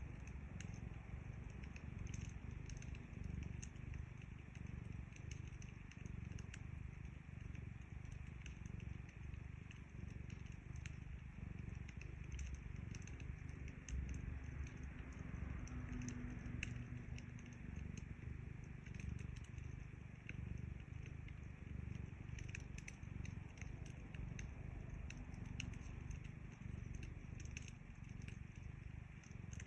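A cat purring steadily close to the microphone, a continuous low rumble, with the irregular small snaps and pops of a wood fire crackling over it.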